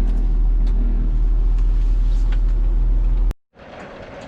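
A loud, steady, deep rumble with a few faint clicks. It cuts off suddenly about three seconds in.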